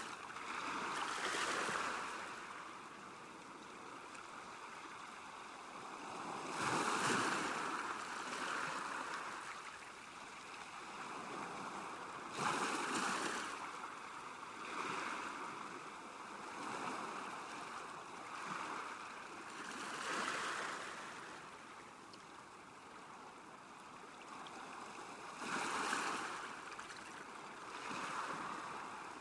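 Small lake waves lapping at the shore, each wash of water swelling and fading every few seconds at an uneven pace.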